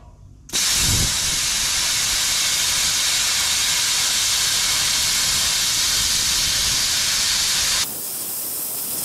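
Plasma cutter torch cutting through the steel of a Model T firewall: a loud, steady hiss of the arc and air jet that starts about half a second in. About a second before the end it drops to a softer hiss.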